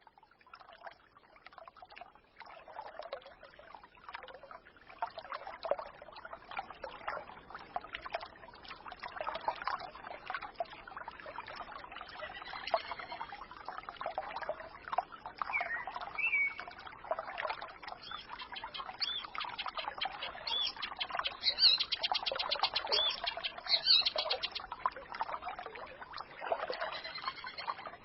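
A small forest stream babbling and gurgling, fading in over the first few seconds, with songbirds chirping over it and a fast, high trill in the second half.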